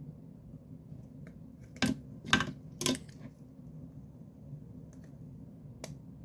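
Small hard parts handled while the power switch is measured: three sharp clacks close together about two seconds in, the middle one drawn out into a short scrape, then a faint click near the end.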